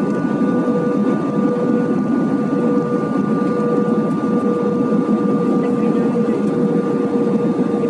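Steady cabin noise inside an Airbus A320 in flight: the engines and rushing air make a loud, even roar, with a few constant hum tones running through it.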